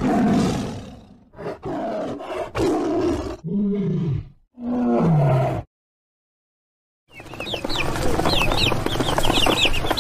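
A tiger roaring and growling in a run of about five calls, the last two falling in pitch. After a moment of silence, a crowd of ducklings starts peeping from about seven seconds in, many short rising peeps overlapping.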